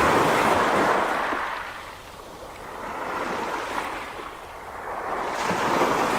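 Sea surf washing ashore, a steady rushing noise that swells and falls back in slow surges about every three seconds.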